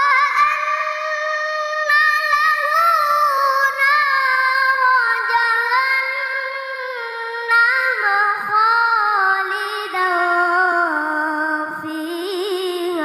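A child qari reciting the Quran in the melodic tilawah style: one long unbroken phrase with rapid ornamented turns, its pitch sinking lower near the end.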